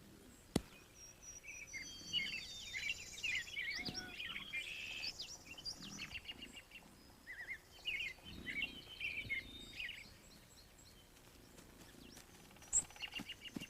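Small birds chirping and trilling in a busy, overlapping chorus that thins out in the last few seconds. A single sharp click about half a second in.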